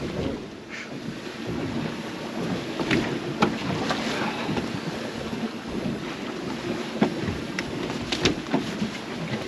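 Wind buffeting the microphone and sea water lapping around a small boat at anchor, with scattered sharp knocks and clicks on the boat.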